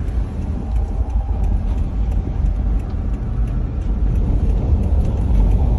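Storm wind buffeting the microphone as a heavy, steady low rumble, with many faint sharp ticks of hailstones striking scattered through it.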